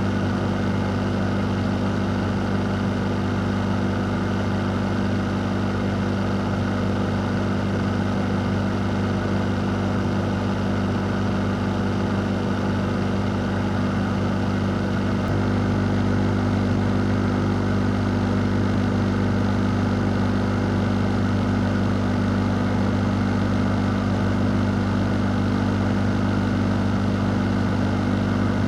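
A fan running steadily: an even rushing whoosh with a low motor hum beneath it, getting slightly louder about halfway through.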